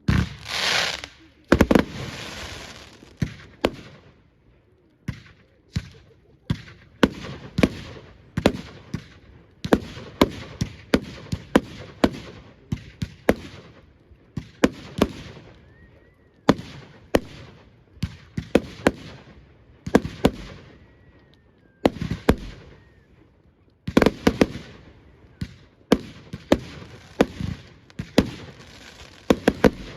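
A fireworks display: a rushing hiss at the start, then a long run of sharp bangs, sometimes several in quick succession, with crackle between them and faint whistles partway through.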